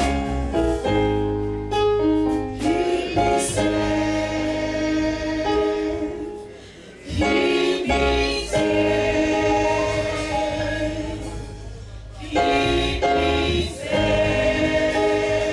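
A choir singing a gospel hymn over instrumental backing with a steady bass, with a short pause about two-thirds of the way through.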